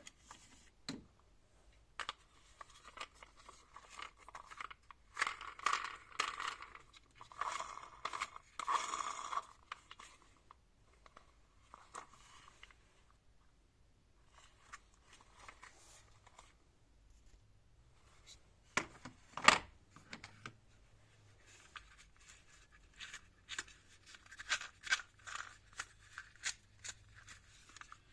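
Packaging being torn and crinkled by hand, in rustling bursts a few seconds in and again near the end, with two sharp knocks a little past the middle.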